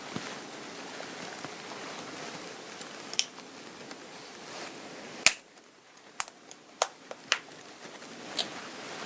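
Cloth rustling as it is handled, then a loud sharp click about halfway through and a few more sharp clicks after it.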